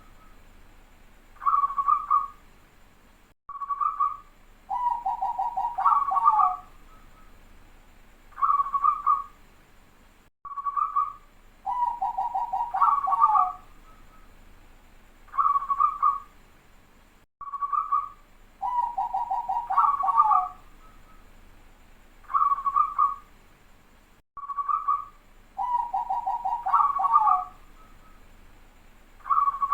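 Zebra dove (perkutut) cooing, in a repeating cycle: about every seven seconds a phrase of a fast rolling trill followed by higher clear coos, with short single coos between phrases. The bird is singing strongly, with the dense, tightly spaced voice (suara rapat) that keepers use as a lure for other perkutut.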